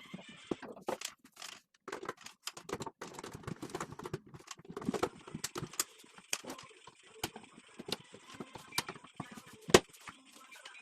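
Irregular clicks, taps and knocks of hand work on the cabinet parts, with one sharper knock near the end.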